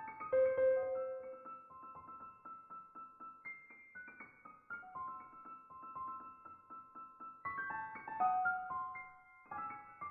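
Background piano music: a gentle melody of quick repeated notes.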